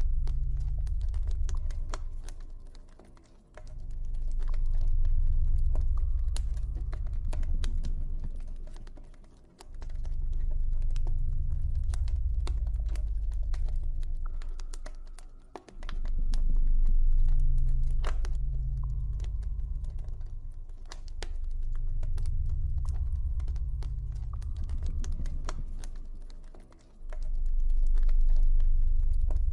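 Campfire crackling with many small, quick pops, over a low ambient drone that swells up and fades away every few seconds.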